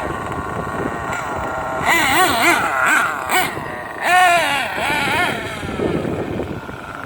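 Losi 8IGHT-T RC truggy's motor revving up and down in several quick bursts as the truck drives, over wind noise on the microphone.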